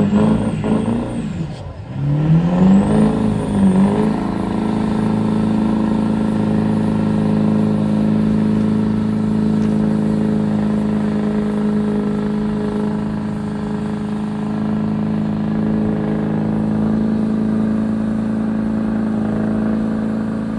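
A motor vehicle's engine revs up twice with a short drop in between, then holds a steady high speed for the rest of the time.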